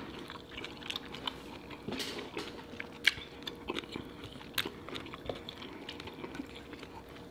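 Close-miked chewing and mouth sounds of someone eating seafood, with scattered small sharp clicks and smacks.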